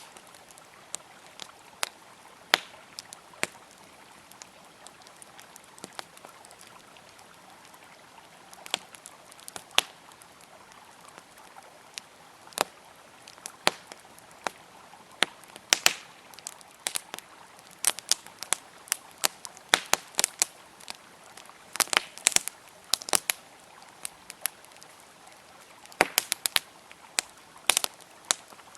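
Campfire crackling with sharp pops and snaps over the steady rush of a flowing river. The crackles are sparse at first and come thicker in the second half.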